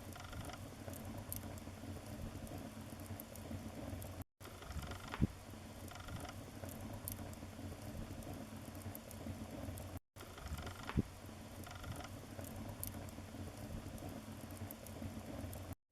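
Wood fire crackling steadily in a fireplace, with a few sharper pops of burning wood, the loudest about five and eleven seconds in. The sound cuts out completely for a split second about every six seconds.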